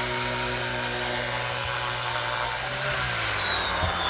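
Electric motors of an RC ERA 1:48 scale Huey micro RC helicopter whining steadily, then falling in pitch about three seconds in as the motors slow.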